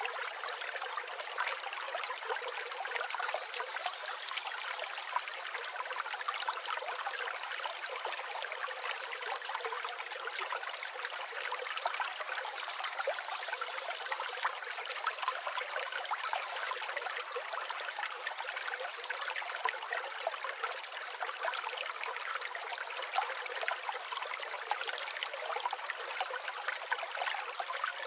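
Flowing river water babbling and trickling steadily, a light, hissy rush with no low rumble. A couple of faint, brief high bird chirps come a few seconds in and again about halfway.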